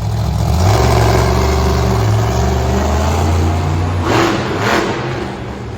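Monster truck engine running hard at high revs, then two short surges of noise a little after four seconds in.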